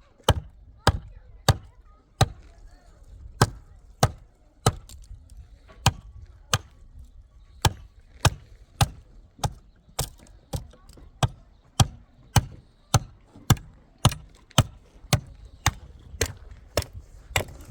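A steady series of sharp striking blows, about two a second, evenly paced and kept up throughout.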